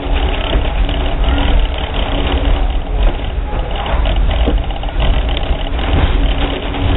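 Steady low rumble of a passenger railroad coach rolling slowly along the track, with a couple of sharp clicks from the wheels and running gear.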